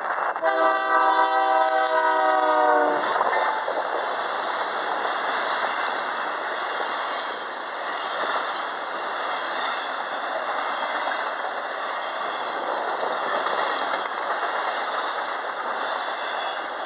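Locomotive air horn sounds for about two and a half seconds, its pitch dropping at the end as the locomotive passes. It is followed by the steady rolling noise of autorack cars' wheels on the rails as the train goes by.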